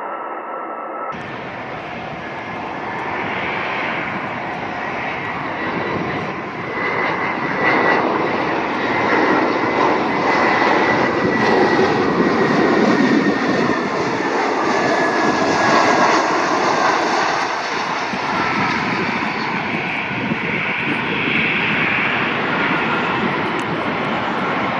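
Jet airliner's engines heard as the aircraft passes: a dense rush with a faint whine that slowly falls in pitch, growing to its loudest midway and then easing off.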